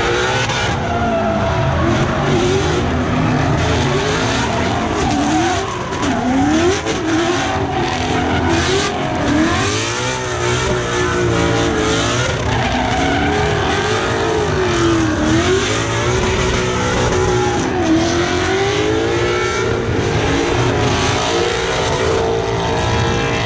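Loud car engine revving up and down over and over, with tires squealing.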